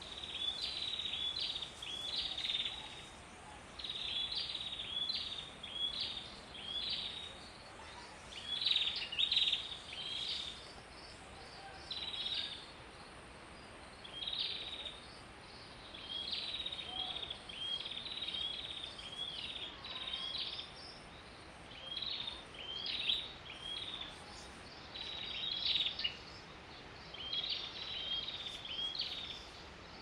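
Wild songbird calling: short bursts of a few high, quick chirping notes, repeated every second or two with brief pauses between them, over a faint steady background hiss.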